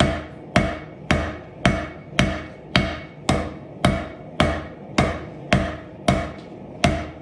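Hand hammer striking hot steel on an anvil while forging a knife blade: steady, evenly spaced blows about two a second, each with a short metallic ring.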